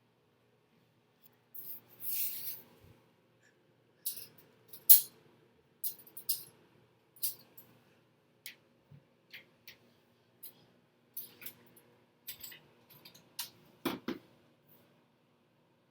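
Dishes and utensils clinking and clattering in an open dishwasher, a string of irregular sharp clicks, with a heavier knock near the end. A faint steady hum runs underneath.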